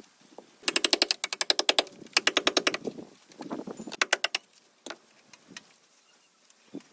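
A workshop tool clattering in rapid, evenly spaced clicks, about ten a second, in three bursts, the last one short.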